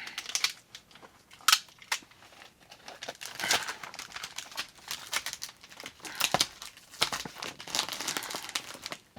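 Adhesive tape being pulled off the roll and torn, with crinkling as material is pressed back into place, and a sharp snap about one and a half seconds in.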